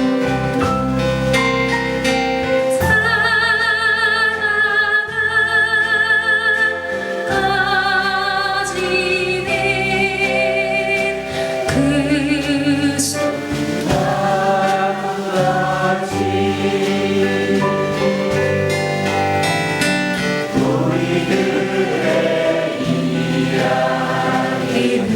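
Live song: voices singing a slow melody over acoustic guitar, with long held notes sung with vibrato.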